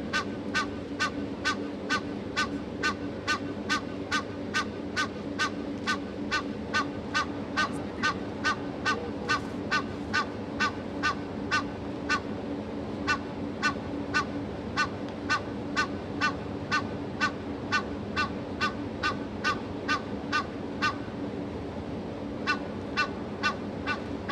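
An animal calling the same short, sharp note over and over, about two calls a second, with a brief pause near the end. A steady low hum runs beneath it.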